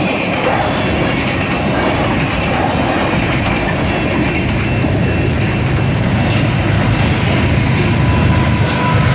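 Freight cars of a passing freight train (tank cars, covered hoppers and boxcars) rolling by at steady speed: steel wheels rumbling and clacking over the rail joints, with a thin high squeal running underneath.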